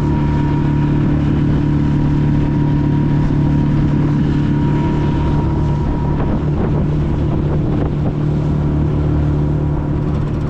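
Small boat's motor running steadily while underway, with wind buffeting the microphone.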